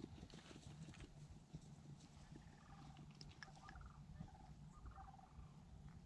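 Near silence: a low rumble of wind on the microphone, with a few faint, short animal calls in the distance about midway.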